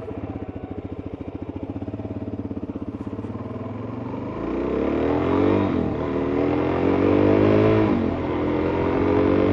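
Suzuki DR-Z400S single-cylinder four-stroke engine idling with an even thumping pulse, then pulling away about four seconds in, revving up and dropping twice as it shifts up through the gears before settling at a steady cruise.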